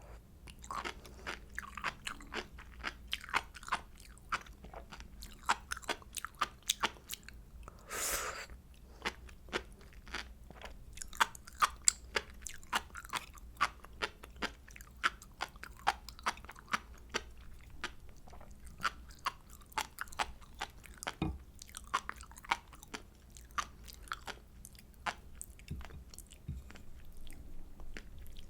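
Close-miked chewing of sea grapes: a dense run of small crisp pops and crunches, several a second, with one longer crackling burst about eight seconds in.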